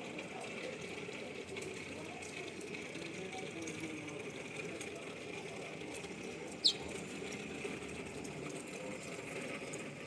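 A single short, high chirp from a small bird, sweeping down in pitch, about two-thirds of the way through, over a steady background hum.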